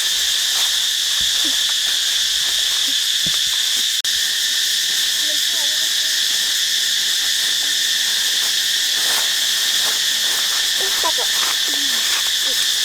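Steady chorus of forest insects, a continuous high-pitched buzz, with faint short calls underneath and a momentary break about four seconds in.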